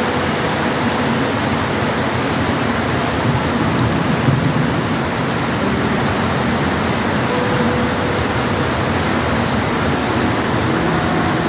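Steady rain, an even hiss, with two faint short tones, one at the start and one about seven seconds in.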